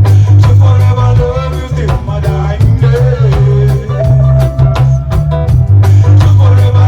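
Lovers rock reggae band playing: a heavy bass line and drum kit beat under a moving melody line.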